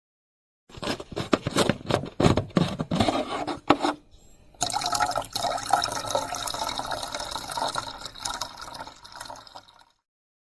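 Household water sound: a run of splashes, then about five seconds of steady running water, like a vessel or basin filling.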